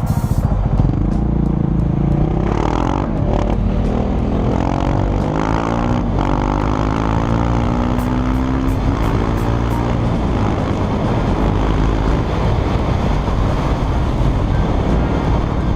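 KTM 690 Duke's single-cylinder engine, breathing through an Akrapovic full-system titanium exhaust, running and revved several times so the pitch rises and falls, then settling to steadier running in the second half.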